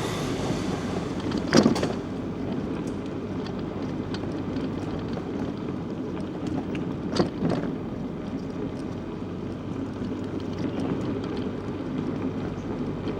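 Steady rumble of a bicycle ride, wind on the microphone and tyres on the road, with a sharp knock about a second and a half in and two more near the middle.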